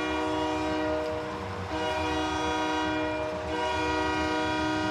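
Arena goal horn sounding in long, steady blasts with two brief breaks, marking a goal just scored.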